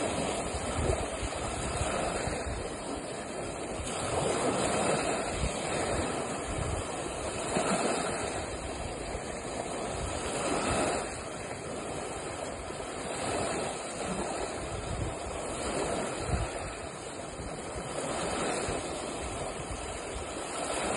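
Lake waves washing in, with wind buffeting the microphone; the rushing noise swells and eases every few seconds.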